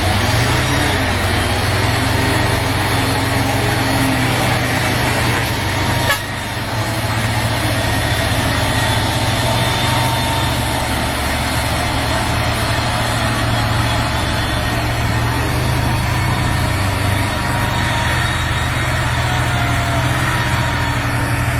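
A motor vehicle running steadily: a constant low drone under an even hiss, with a single short click about six seconds in.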